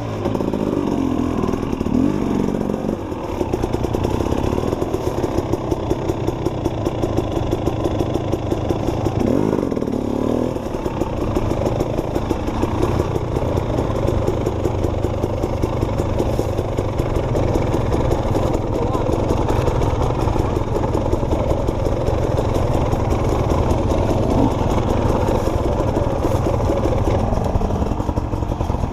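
Enduro dirt bike engine running steadily at low revs, with a fast, even firing beat.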